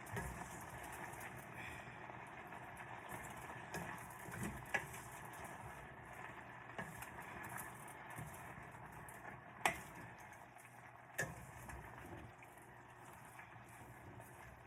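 Faint, steady cooking noise of food simmering and sizzling in a pan on the stove, with three sharp clinks about 5, 10 and 11 seconds in.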